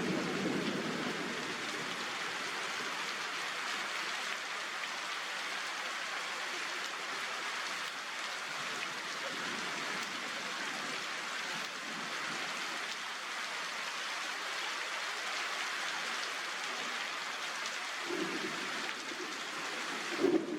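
Steady rain falling, an even continuous hiss, with a few brief lower sounds near the end.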